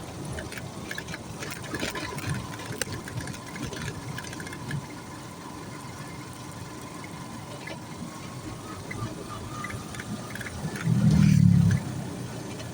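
A vehicle engine running with a steady noise bed and scattered light clicks and rattles. About eleven seconds in, a much louder low rumble lasts under a second.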